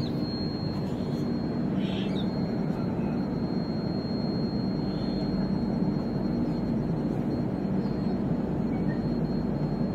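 Train running past: a steady rumble of wheels on rails that holds level throughout.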